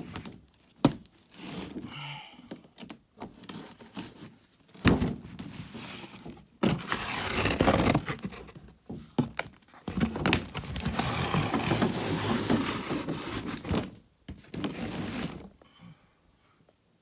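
A cardboard box being cut open and handled with a box cutter: scattered knocks and clicks, with two longer stretches of scraping and rustling about seven seconds in and again from about ten to fourteen seconds in.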